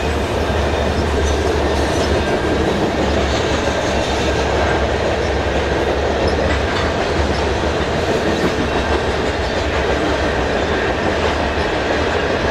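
Covered hopper cars of a freight train rolling past: steel wheels on rail making a steady rolling noise.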